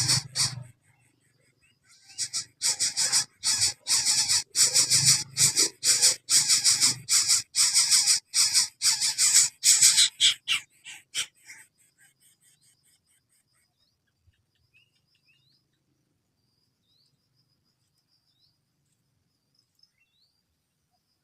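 Coucal chicks giving a rapid series of harsh, hissing rasps, about three a second, for roughly ten seconds before stopping; afterwards only faint short high chirps remain.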